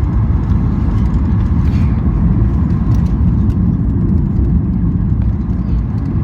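Aircraft cabin noise heard from inside a passenger plane in flight: a steady low rumble of engines and rushing air.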